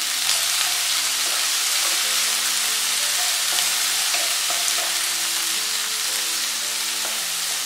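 Chopped onions and green chillies sizzling steadily in hot oil in a nonstick kadai as a spatula stirs them.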